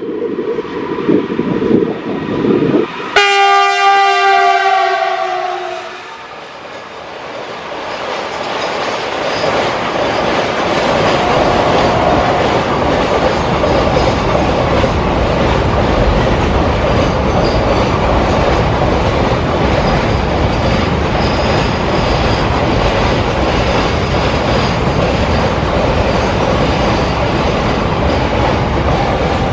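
A GE WDG4G diesel locomotive blows its multi-note horn for about three seconds as it passes, the chord sliding slightly down in pitch. Then a long container freight train rolls by with a steady rumble and wheel clatter.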